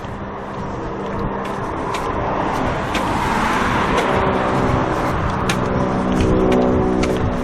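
Street traffic: a car passes, its tyre and engine noise swelling about three to four seconds in, over a steady engine hum that grows louder near the end.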